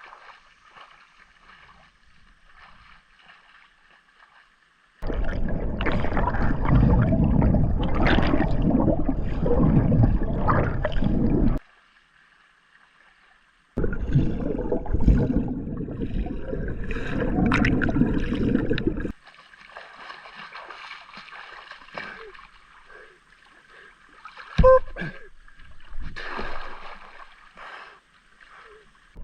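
Water splashing and churning close to the microphone as a person swims, in two long loud stretches that start and stop abruptly, with quieter water sounds between and a sharp click near the end.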